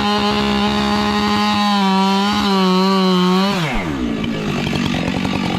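Husqvarna 592 XP chainsaw with square-ground skip chain running at full throttle while cutting down a stump, its pitch sagging slightly as it loads in the cut. About three and a half seconds in the throttle is released and the engine falls to idle.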